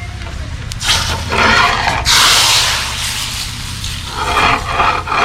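Hot oil with fenugreek seeds poured into the simmering fish curry as a tempering, hissing loudly all at once about two seconds in and then dying away, over a steady low hum.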